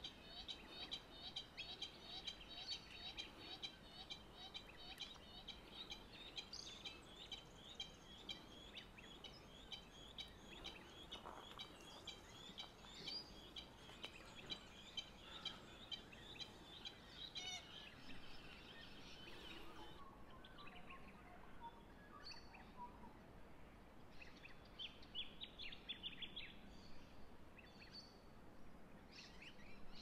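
Faint, high bird chirping: short chirps repeated about twice a second, thinning out after about eighteen seconds and returning in a short run a few seconds before the end.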